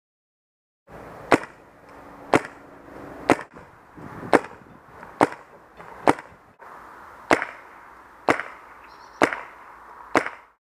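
MacDev Clone VX paintball marker firing on semi-auto: about ten sharp shots roughly one a second, cutting off abruptly near the end.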